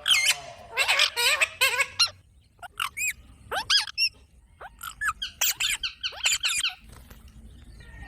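Pet green parrots squawking and screeching: many short, sharp, high calls in quick clusters, some rising then falling in pitch.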